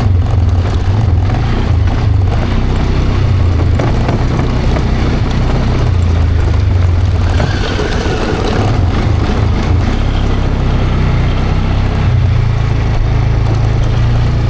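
A nearby engine running steadily, with a low rumble whose pitch and level shift slightly now and then.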